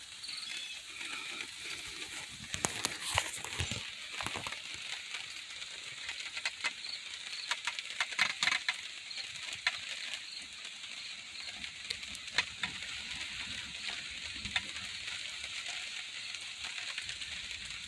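Light rain beginning to fall: a steady fine hiss with scattered single drops ticking sharply now and then.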